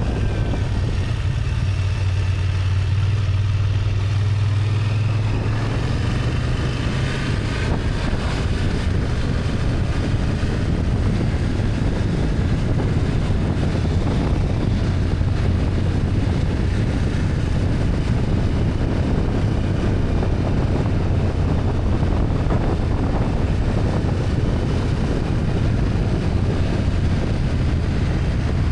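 BMW F800GS parallel-twin engine running steadily under way, a low hum under a constant rush of wind and road noise. The engine note eases a little about six seconds in.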